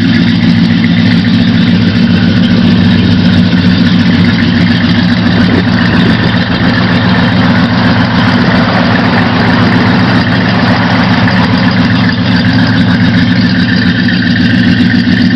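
1977 Chevy C10's 305 small-block V8 idling steadily through true dual exhaust, freshly cold-started at 8°F. It runs loud and even, with no revving.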